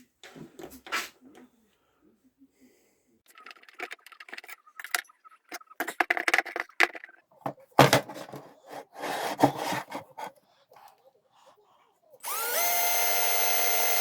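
Clicks, knocks and scraping of tools and parts being handled. About twelve seconds in, an electric drill spins up and runs at a steady speed.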